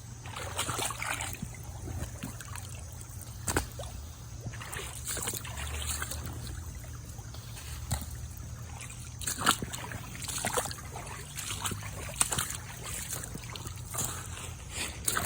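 Shallow creek water trickling, with scattered splashes and sharp knocks every few seconds.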